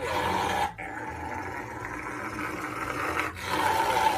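A dog vocalizing in long, rough stretches, broken twice by short pauses.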